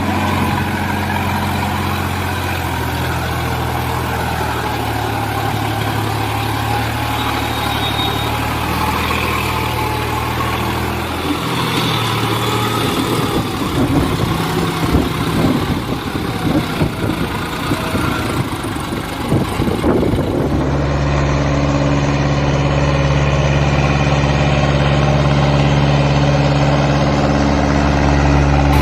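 A vehicle engine running steadily at idle. It turns rough and uneven for several seconds in the middle, then a different steady engine hum takes over abruptly about two-thirds of the way in.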